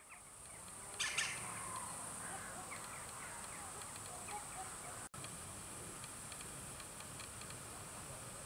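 Small birds chirping, with a louder call about a second in, over a steady high-pitched hiss. After a cut about five seconds in, the chirps give way to faint, regular ticking.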